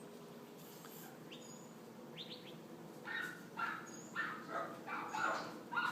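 A series of short animal calls, about two a second, starting about three seconds in, with a few thin high chirps before them.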